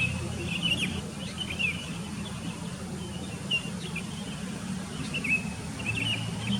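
Sooty-headed bulbuls chirping, many short quick calls scattered through, over a steady low rumble.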